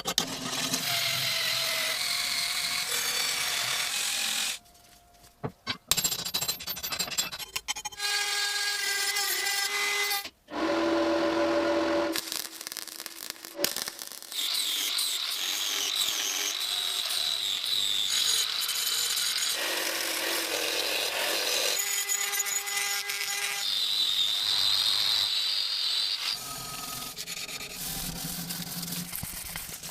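Power tools grinding and sanding a rusty steel billhook blade, a steady rasping run with a motor whine, broken by abrupt cuts and short pauses.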